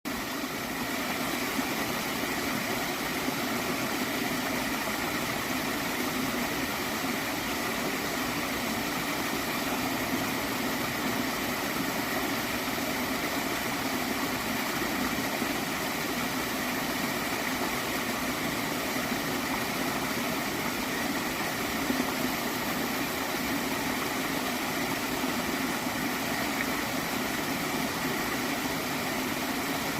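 A gently flowing stream of water, running steadily without a break.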